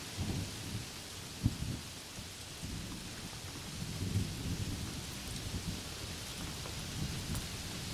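Thunderstorm: steady rain hissing over low rolling thunder that swells and fades, with one short, sharp crack about one and a half seconds in.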